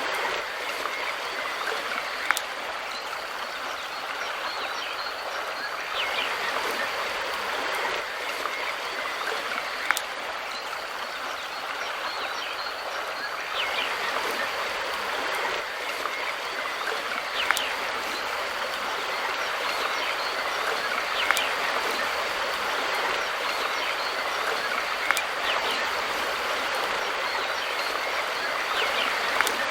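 Mountain river water flowing steadily, with a sharp click every four seconds or so and faint high chirps.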